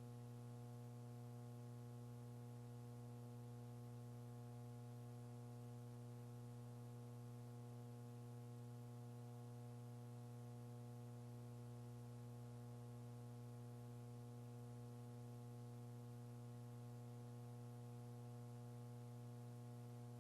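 Faint steady electrical hum with a buzzy stack of even tones on a launch-control communications audio feed, unchanging throughout.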